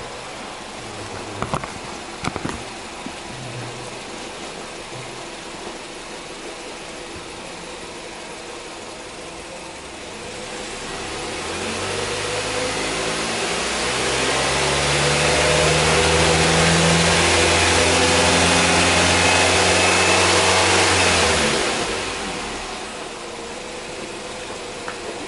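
Nissan Serena Highway Star's four-cylinder petrol engine idling, with a few sharp clicks near the start. About ten seconds in it is revved up over a few seconds and held at high revs for about seven seconds, then drops back to a steady idle.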